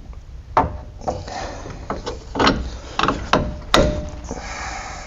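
Metal parts knocking and clanking as a tie rod end is worked into a truck's steering knuckle: about seven sharp, irregular knocks, one with a short metallic ring.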